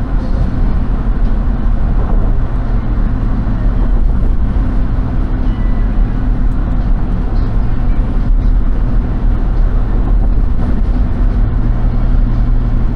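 Car driving, a steady rumble of engine and road noise heard from inside the cabin.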